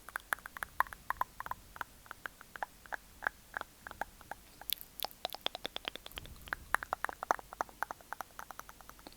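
ASMR mouth sounds close to the microphone: quick wet clicks and smacks of tongue and lips, several a second in an uneven rhythm, stopping just before the end.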